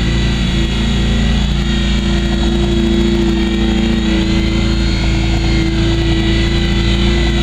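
Small electric RC helicopter (WLtoys V911) in flight: its motor and rotors give a steady whine over a low hum, wavering slightly in pitch.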